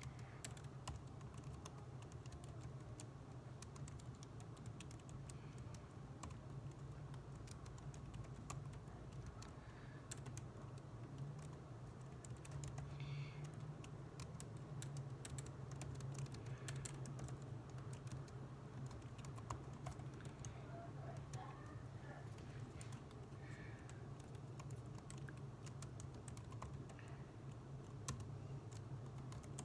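Typing on a computer keyboard: a steady, irregular run of keystroke clicks over a constant low hum.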